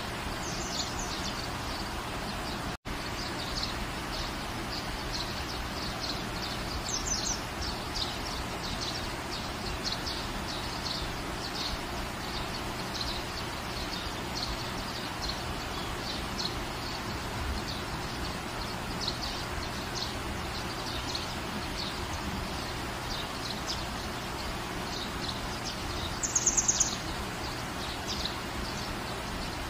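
Steady rain falling, with small birds chirping in short repeated calls throughout and a brief louder run of chirps near the end. The whole track drops out for an instant about three seconds in.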